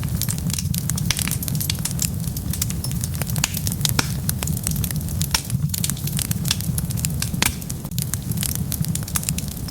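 Wood fire burning with dense, constant crackling and popping over a steady low rumble of the flames.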